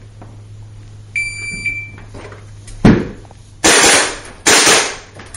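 A shot timer's start beep: a high steady tone lasting under a second, with a brief dip near its end. About a second later pistol shots begin, first one sharp crack, then two more loud shots that ring on in the room.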